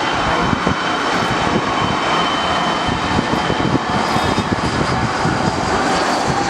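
Twin-engine jet airliner on landing approach, its engines giving a loud, steady rush of noise with a thin whine on top.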